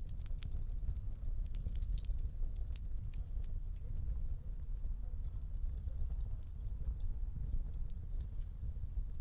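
Wood fire burning in a fireplace: many small, quick crackles and pops over a steady low rumble of the flames.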